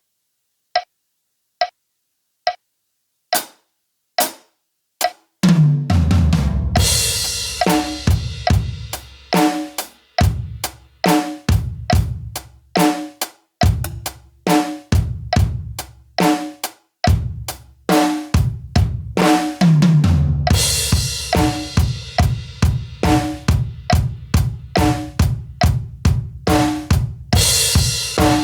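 Drum kit practice at a slow 70 BPM: a few evenly spaced count-in clicks, then single hits, then from about five seconds in a steady groove of kick, snare and hi-hat, with cymbal crashes about seven, twenty and twenty-eight seconds in.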